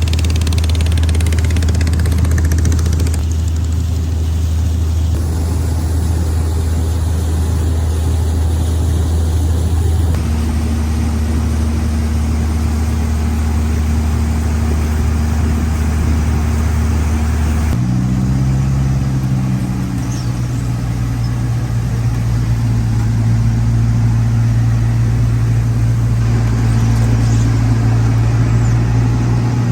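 A boat's engine running steadily at speed, a strong low drone over a haze of wind and water noise. About 18 s in the engine note shifts with a brief glide and settles at a slightly higher pitch.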